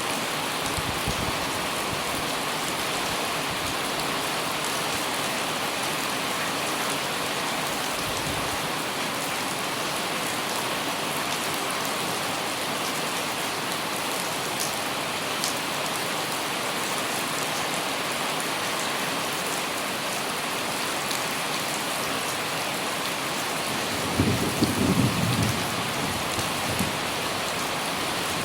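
Light rain pattering steadily on an umbrella, with a steady hiss of rain on the surroundings. Near the end, a few seconds of low rumbling bumps rise above the rain.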